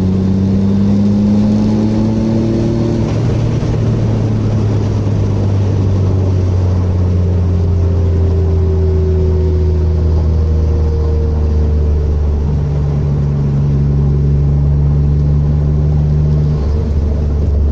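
Mitsubishi 6G72 DOHC V6 engine idling steadily, running evenly with its misfire fixed.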